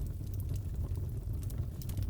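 Crackling fireplace: wood fire burning with a steady low rumble under scattered sharp crackles and pops, several coming close together near the end.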